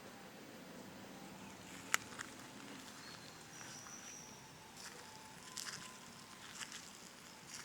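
Faint outdoor ambience with one sharp click about two seconds in, a short high whistle-like tone about four seconds in, and scattered light ticks and taps later on.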